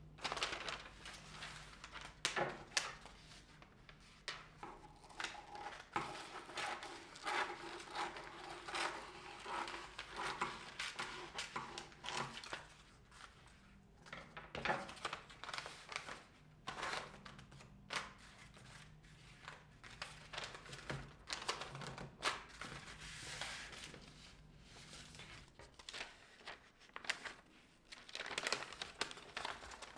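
Paper being handled by hand, crinkling and rustling in irregular bursts with short pauses, typical of gift wrapping paper being folded around a package.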